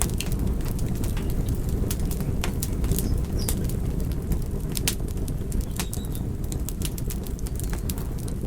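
Wood fire burning in a fireplace: frequent, irregular sharp crackles and pops from the logs over a steady low rumble of flames.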